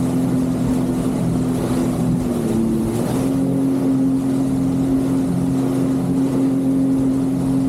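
Jet ski engine running at a steady speed, with a brief small dip in engine speed between two and three seconds in.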